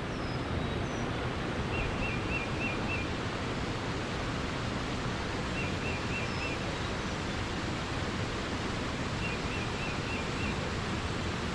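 Steady rush of flowing water, with a bird repeating a short phrase of four or five quick high notes three times, about every four seconds, and a few faint higher chirps.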